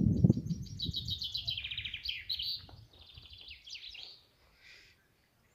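Songbirds singing rapid trilled phrases of quick repeated high notes, fading out near the end. A low rumble sounds briefly at the start.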